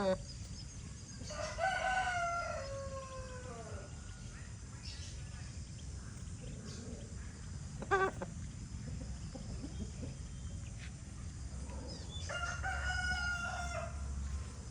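Young Aseel game rooster crowing twice: a long crow about a second in that falls in pitch at its end, and another near the end. Short, sharp single calls come at the start and about halfway through.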